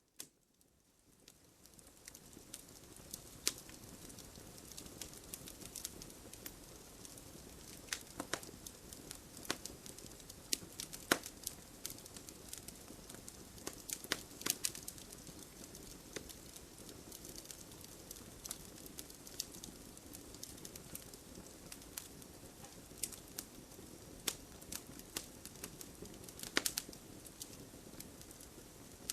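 Wood fire burning in a fireplace: a steady low rush of flames with irregular sharp crackles and pops, some louder than others. The sound fades in from near silence over the first two seconds.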